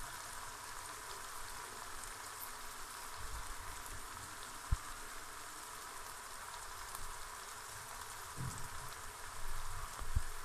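Spiced curry masala sizzling and bubbling in oil in a wok: a steady crackling sizzle, the sauce simmering after a little water and lemon juice have been added. A single short low thump about halfway through, and a few soft low knocks near the end.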